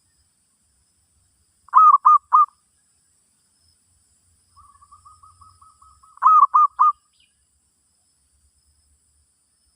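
Zebra dove (merbok) cooing: a three-note phrase about two seconds in, then a softer quick string of short coos, then the same three-note phrase again about six seconds in.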